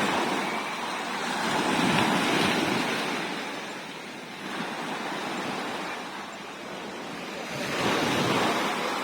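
Sea waves washing onto the shore. The surf swells about two seconds in and again near the end.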